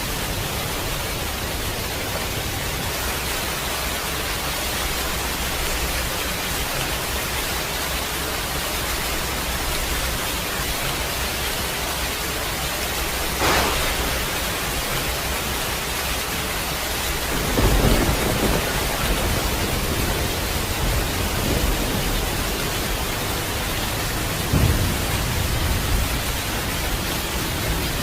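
Heavy rain falling steadily, with a sharp crack of thunder about halfway through, then low thunder rumbles a few seconds later and again near the end.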